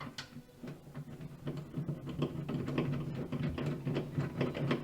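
Screwdriver driving a screw into the fridge's plastic freezer side rail: rapid mechanical ticking with a steady low hum that builds from about a second and a half in.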